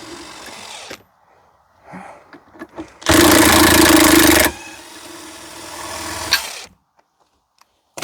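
Power drill with a socket running in one burst of about a second and a half, backing out a long, fine-threaded engine mount bolt, after a few light clicks. A quieter whir follows and fades out.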